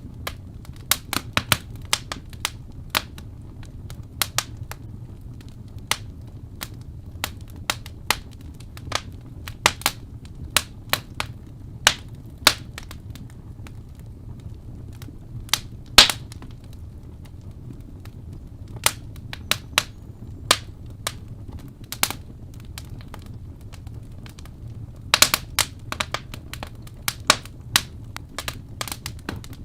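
Wood fire in a fireplace crackling: sharp irregular pops and snaps over a low steady rumble of the burning, with one louder pop about halfway through and a quick cluster of snaps near the end.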